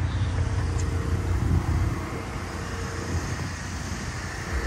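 Steady low rumble of vehicle noise, with faint even tones riding above it.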